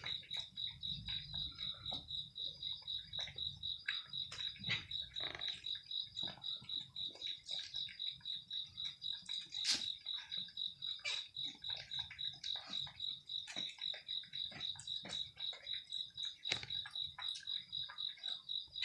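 A steady, high chirping that pulses about four to five times a second, the kind crickets make, with many short irregular clicks and crunches over it that fit chewing and eating noises.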